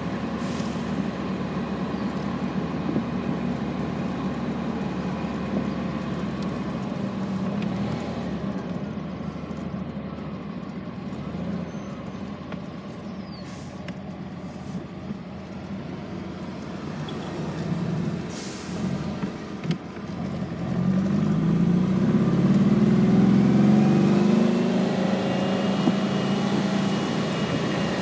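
A 1964 cabriolet's engine running on the road, heard from inside the car with tyre and wind noise. About three quarters of the way through it grows louder and rises in pitch as the car accelerates, then eases off.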